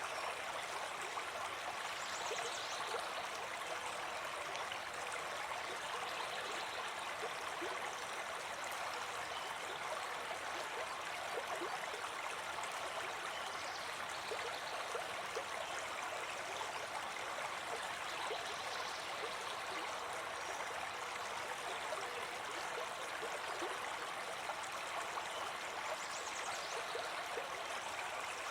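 Forest brook babbling and gurgling steadily over stones, a continuous even rush of running water.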